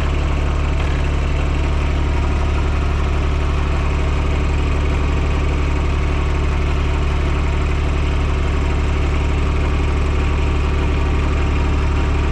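TYM T224 subcompact tractor's diesel engine running steadily at idle, with an even, unchanging drone.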